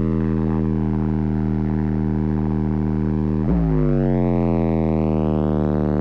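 Sustained low synthesizer drone holding one note with a rich stack of overtones. About three and a half seconds in, a quick swoop resets it and the note starts again with its upper tones sweeping in.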